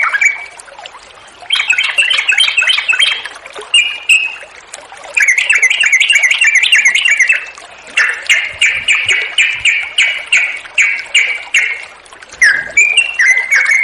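Yellow-vented bulbul singing long, loud bubbly phrases of quick warbled notes, several phrases in a row with short pauses between, the longest a fast even run of notes lasting about four seconds. A faint high chattering runs underneath.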